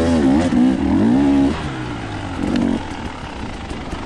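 Dirt bike engine revving, its pitch rising and falling for about a second and a half, then dropping back to quieter, rougher running.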